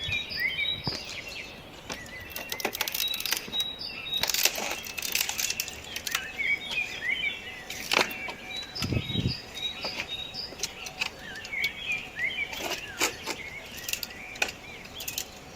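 Small birds chirping again and again, over scattered knocks and clatters, with one dull thump about nine seconds in.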